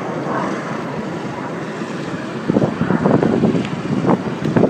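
Steady roar of the Red Arrows' BAE Systems Hawk T1 jets in display flight, mixed with wind buffeting the microphone, turning louder and gustier about halfway through.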